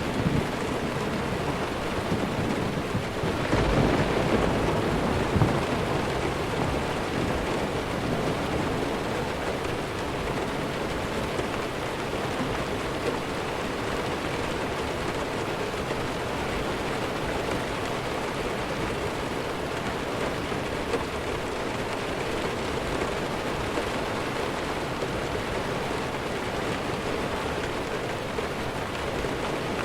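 Steady rainfall with a roll of thunder that swells about three and a half seconds in and fades within a few seconds, leaving even rain.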